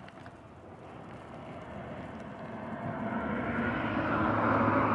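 A passing vehicle approaching, its engine and road noise growing steadily louder across the seconds.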